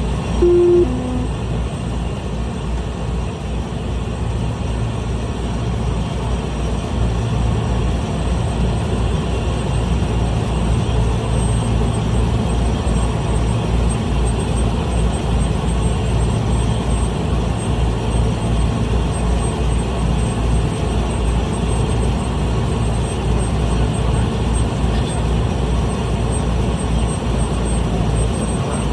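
Small plane's engine running steadily, heard from inside the cabin as a low pulsing drone. A short falling two-note tone sounds just under a second in.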